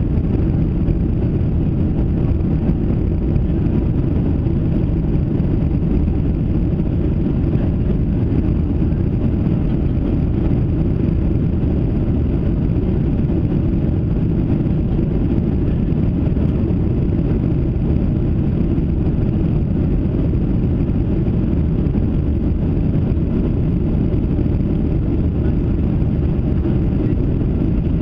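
Steady engine and airflow noise of a Boeing 737-700 with CFM56-7B turbofans, heard from inside the passenger cabin: a loud, even low rumble that holds constant throughout.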